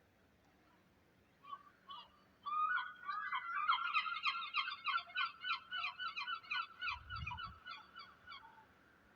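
A bird calling: a rapid run of short harsh notes, about five or six a second, that starts hesitantly, speeds up and then thins out over about seven seconds. A brief low thump comes near the end.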